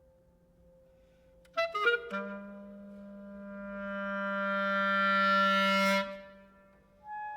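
Contemporary chamber music for flute, clarinet, violin, double bass and piano: faint held tones, then a quick flurry of notes about a second and a half in, followed by a low held note and a higher sustained note that swell in a long crescendo and break off about six seconds in. A new high note enters near the end.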